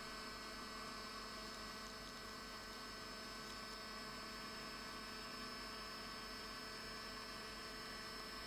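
Steady electrical hum with a faint hiss underneath, unchanging throughout, with no distinct handling or tool sounds.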